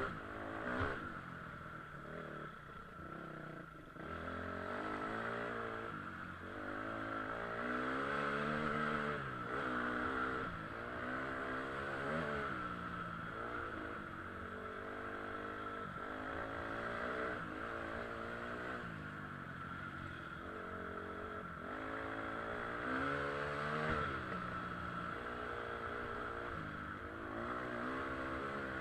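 KTM EXC 250 enduro motorcycle engine being ridden off-road, revving up and dropping back again and again, its pitch rising and falling every second or two.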